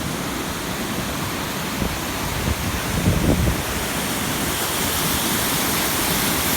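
Waterfall cascades rushing: a loud, steady roar of falling water that grows a little louder near the end. A brief low rumble comes about three seconds in.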